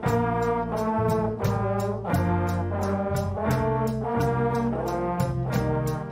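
School band's brass section, trombones and trumpets, playing a tune in short changing notes over a steady percussion beat of about three ticks a second.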